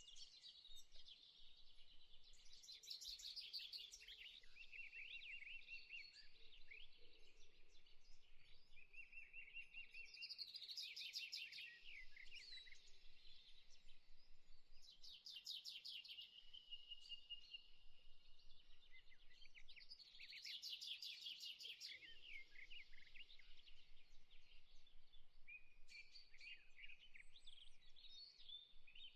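Faint birdsong: birds singing rapid trilled phrases every five seconds or so, with held whistled notes and chirps between them.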